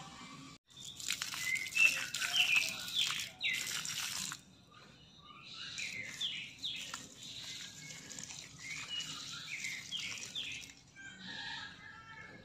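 Small birds chirping and calling: many quick short notes that sweep up and down, in two busy stretches with a short lull about four seconds in.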